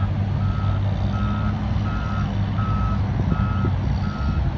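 A heavy vehicle's reversing alarm beeping steadily, about one beep every 0.7 s, over the low running of its engine as it backs up during a recovery from the surf.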